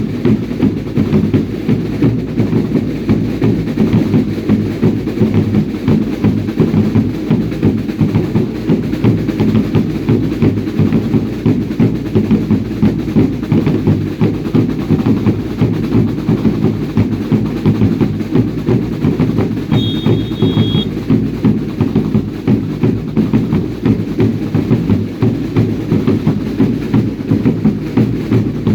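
Drums of a baile indio dance group beating a steady, driving rhythm, with a short high whistle about twenty seconds in.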